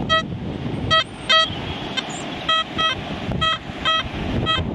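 XP Deus metal detector giving about eight short beeps, some lower-pitched and some higher, as the coil is swept back and forth over a weak, uncertain target. A low rumble of wind and handling noise runs underneath.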